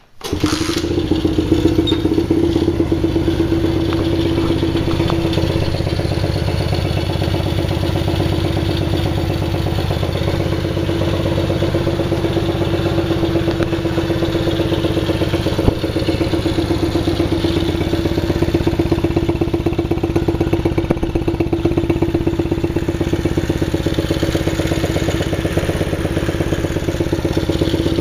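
A CRF50-clone pit bike's small single-cylinder four-stroke engine comes to life at the start and then runs at a steady idle throughout.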